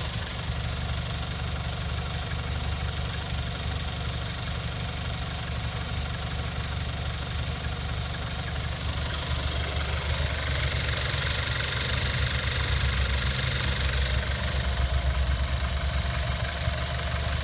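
Skoda Octavia 1.4 TSI turbocharged four-cylinder petrol engine idling steadily, a little louder for a few seconds past the middle. It runs with no extraneous noise after its water pump and belt pulleys were replaced.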